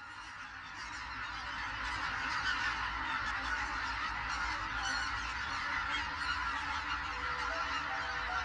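A large flock of wintering geese and other waterfowl honking together in a dense, continuous chorus. It grows louder over the first couple of seconds, then holds steady.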